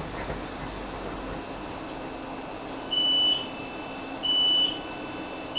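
Class 458 electric multiple unit coming to a stop, its low running rumble dying away, then the train's door warning beeps sounding from about three seconds in: a high beep of about half a second repeating every second and a bit, as the doors are released at the station.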